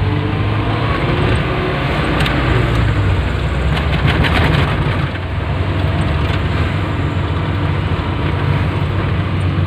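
An old 1986 Suzuki Carry's small three-cylinder engine runs steadily with road noise as the van drives, with a few brief rattling clicks about two and four seconds in.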